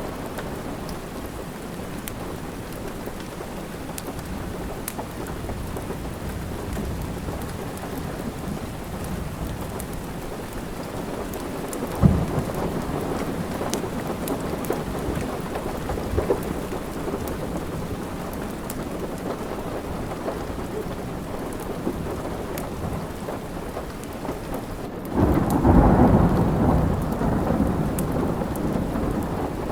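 Steady rain, with scattered faint clicks and one sharp crack about twelve seconds in. Near the end a sudden rumble of thunder breaks in and carries on.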